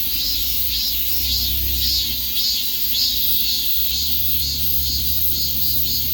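Cicadas singing in chorus: a high, shrill drone that swells and fades about twice a second over a steady hiss, with a low rumble underneath.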